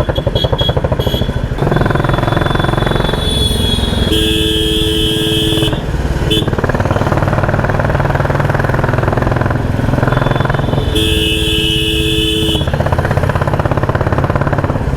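Royal Enfield Classic 350 single-cylinder engine running loud through its aftermarket exhaust, pulling away from a stop. A vehicle horn sounds twice, each time for about a second and a half, about four seconds in and again about eleven seconds in.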